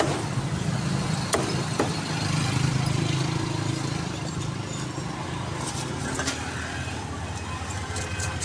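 Street traffic noise: a steady low engine hum with a general street hiss and a few sharp clicks.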